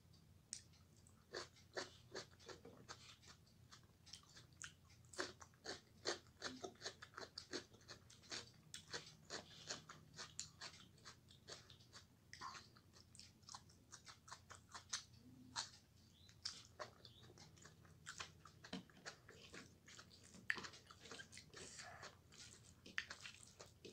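Quiet, close-up eating sounds of a person eating rice and fried okra by hand: a steady run of short chewing smacks and mouth clicks.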